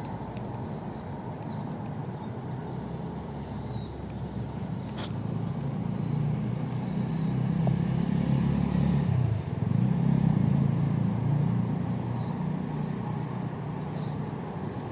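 Road traffic rumbling, with a vehicle passing that swells in the middle and fades away.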